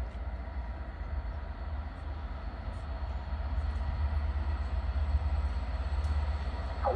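A train approaching, its low rumble growing steadily louder, with a brief higher-pitched sound starting right at the end.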